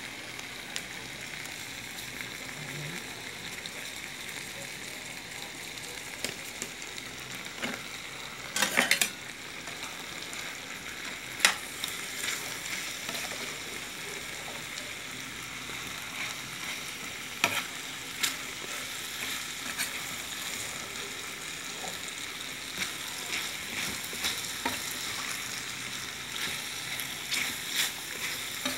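Chicken, diced potatoes and carrots sizzling steadily in a frying pan while being stirred, with a few sharp knocks of the spatula against the pan.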